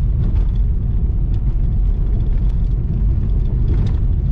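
Cabin noise of a Lada Vesta driving over a rough, stony gravel road: a steady low rumble from the tyres and suspension, with a few light knocks and rattles. The car is running on newly fitted ASOMI suspension struts.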